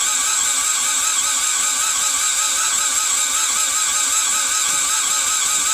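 Starter motor cranking a Toyota 4A-GE 1.6 L 16-valve engine over steadily with an even, pulsing rhythm, without it firing. This is a no-start, which the owner suspects is something electronic, such as a crankshaft position sensor or the timing belt, disabling the engine.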